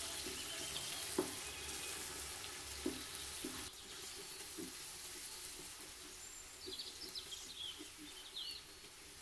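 Sliced onions, green chillies and mint sizzling faintly in oil in a rice cooker's metal pot while a wooden spatula stirs them, knocking and scraping against the pot every second or two. The onions are being sautéed to golden brown for biryani.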